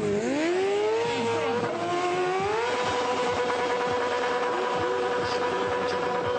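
Stunt motorcycle's engine revving: the pitch dips and climbs for the first couple of seconds, then holds steady at high revs from under three seconds in.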